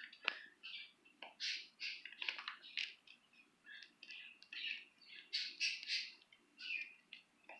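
Budgerigars chirping and chattering in quick short bursts, several a second, with a few sharp clicks among them.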